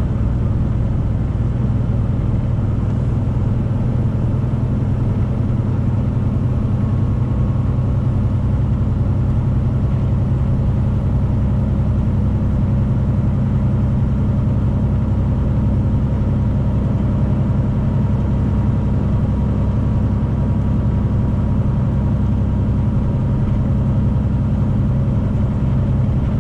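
Steady drone of a Freightliner semi truck's diesel engine and road noise inside the cab while driving.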